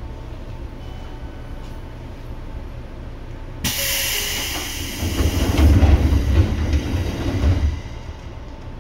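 Cabin running sound of a Seibu 2000 series electric train, heard from above its under-floor line breaker: steady low running noise, then a sudden loud hiss about three and a half seconds in. About three seconds of heavy low rumble follow and die away near the end.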